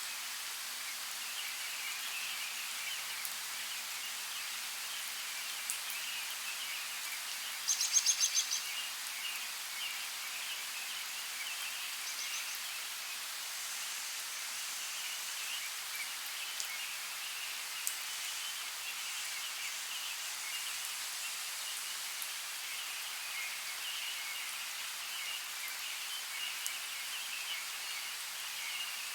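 Forest ambience: light rain falling as a steady hiss, with continuous distant bird chatter. About eight seconds in, a bird gives one quick trill of rapid repeated high notes.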